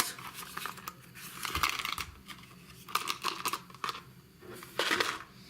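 Packaging of a set of valve stem seals being handled and opened by hand: irregular rustling and crinkling, with the loudest burst near the end.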